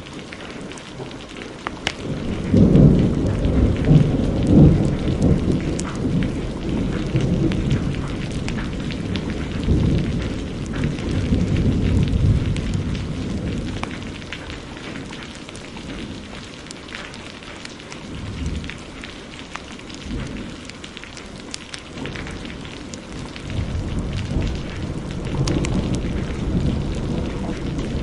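Thunder rolling over steady heavy rain. A long low peal starts about two and a half seconds in, is loudest in the next few seconds and dies away by about halfway, and another rumble builds near the end. Sharp crackles from a fireplace are scattered throughout.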